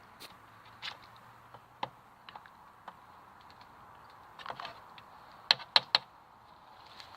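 A scatter of small, sharp clicks and cracks, with three louder ones in quick succession about five and a half seconds in.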